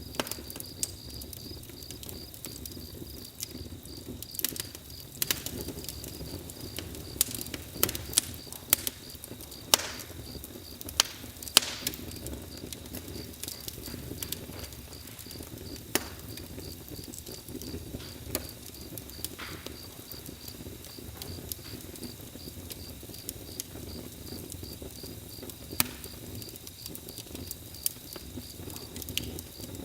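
Bonfire crackling, with sharp, irregular pops over a low rush of the flames, and crickets chirping steadily.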